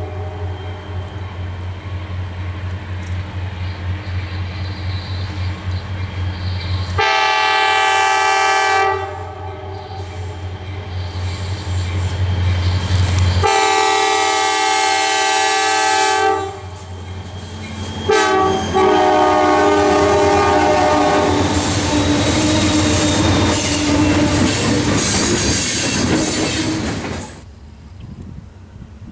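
Diesel locomotive's air horn sounding three long blasts, of about two seconds, about three seconds and then a longer one, over the low rumble of the locomotive and wheels clacking over rail joints. The sound drops away sharply near the end.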